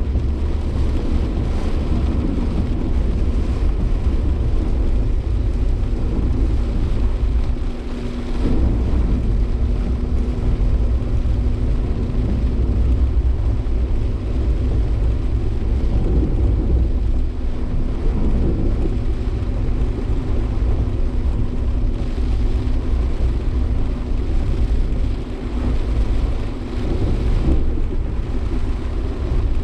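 Suzuki Jimny Sierra's 1.5-litre four-cylinder driving, heard from inside the cabin: a steady engine drone over a low road rumble, dipping briefly about eight seconds in and again near the end.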